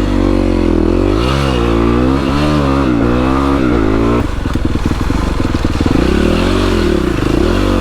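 Yamaha WR450 single-cylinder dirt bike engine revving up and easing off several times as it rides away, the pitch rising and falling with the throttle; about four seconds in the revs drop and it runs on lower and rougher.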